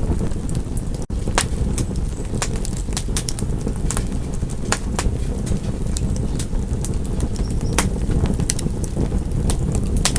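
Fireplace fire crackling: a steady low rumble of flames with many irregular sharp pops and snaps. The sound cuts out for an instant about a second in.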